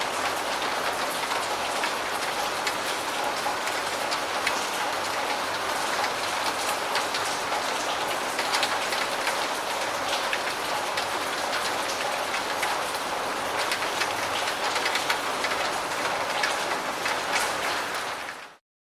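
Steady rain falling, a dense hiss scattered with the ticks of individual drops striking a surface. It cuts off suddenly near the end.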